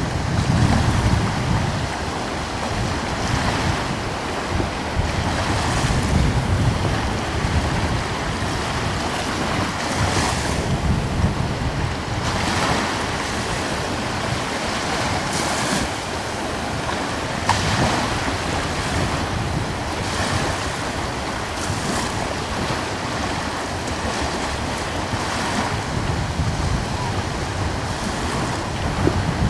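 Small ocean waves washing onto the shore, each wash swelling and fading every few seconds, over a steady rush of coastal breeze with wind rumbling on the microphone.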